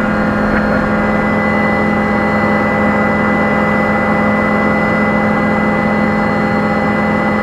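Helicopter running at a steady pitch: an even engine and rotor drone with several fixed whining tones.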